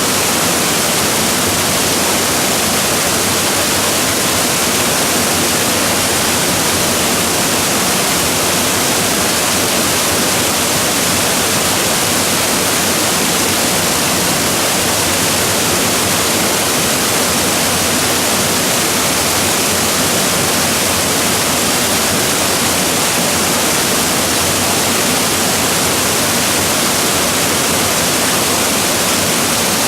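Waterfall pouring, a loud steady rush of falling water that does not change.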